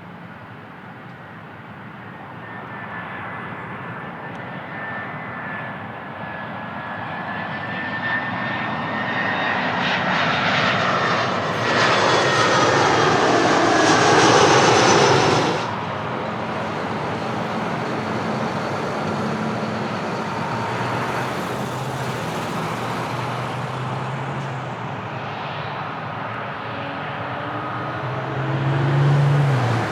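Airbus A319 jet on landing approach: its CFM56 turbofan engines grow louder as it nears, with a whine that slowly falls in pitch as it passes. The sound drops suddenly about halfway, then the engine noise carries on steadily.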